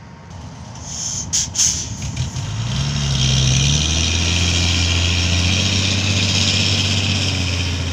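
Diesel engine of a ten-wheel Fuso dump truck speeding up about two and a half seconds in, then holding a steady high speed with a hiss over it; a couple of short sharp sounds come about a second and a half in.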